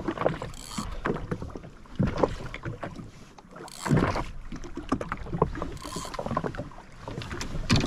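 Water slapping and sloshing irregularly against the hull of a jet ski drifting at sea, with scattered knocks of handling and a few louder splashes.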